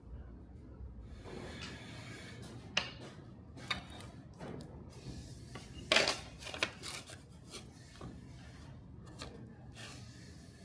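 Irregular rubbing and scraping, broken by a few sharp clicks, the loudest about six seconds in.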